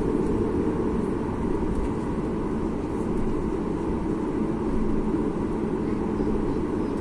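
Boeing 737 MAX 8's CFM LEAP-1B jet engines heard inside the passenger cabin as a steady, low hum with a faint tone, holding an even level while the airliner is on the ground before takeoff.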